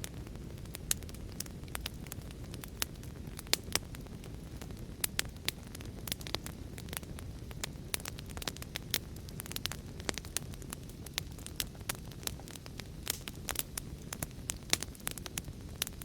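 Wood fire crackling: a steady low rumble of burning with many sharp, irregular pops and snaps.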